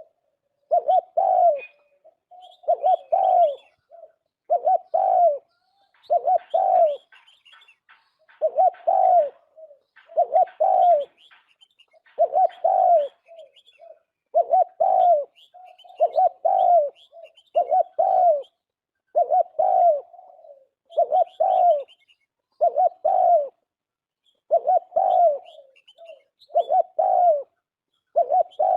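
Turtle dove cooing, one short cooing phrase about every two seconds, over and over. Faint high chirps from other small birds sound between the phrases.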